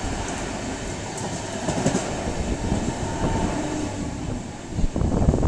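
Train running on the rails: a steady rumble with wheel clatter, with a few louder knocks near the end.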